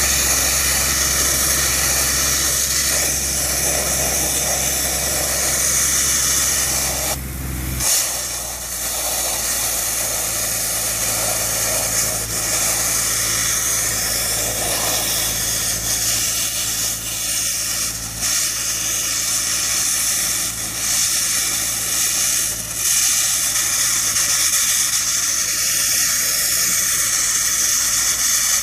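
Sandblasting nozzle blasting abrasive at a truck trailer: a loud, steady hiss. A low machine hum underneath stops about a third of the way in.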